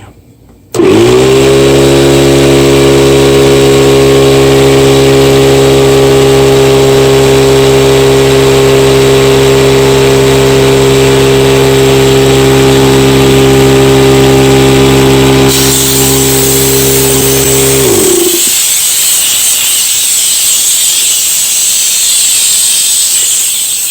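An electric air compressor starts with a loud, steady motor hum that runs for about seventeen seconds and then winds down and stops, used to inflate an underinflated scooter tyre. A strong hiss of air rises just before the motor stops and carries on afterwards.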